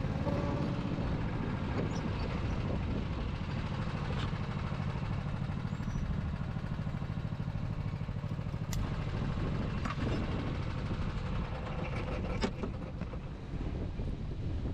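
Go-kart engine running steadily, with a few short knocks in the second half.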